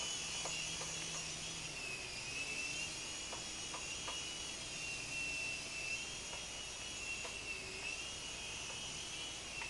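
Small RC helicopter's motor and rotors whining steadily in flight, the pitch dipping and rising as the throttle is worked, then cutting out near the end.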